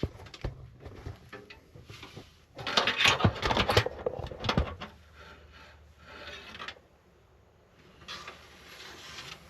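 Hard metal and plastic computer parts and tools being handled: scattered clicks and knocks, with a louder stretch of rattling and scraping about three seconds in.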